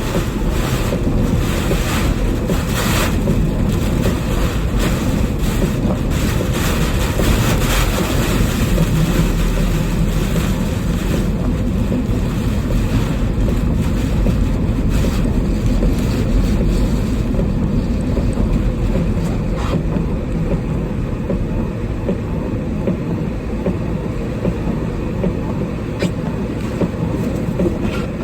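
Typhoon wind blasting against the microphone as a loud, steady low rumble, with crackling gusts that ease somewhat about two-thirds of the way through.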